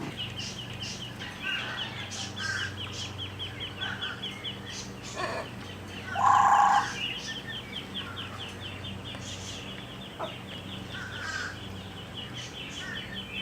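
Domestic fowl calling. One loud, short squawk about six seconds in stands out over a continuous fast, high-pitched chirping and a low steady hum.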